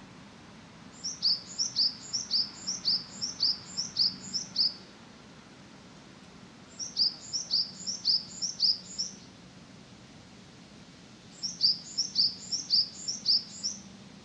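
A small bird calling in three bouts of rapid, high chirps, each bout a few seconds long with several notes a second. The bouts start about a second in, near the middle and near the end.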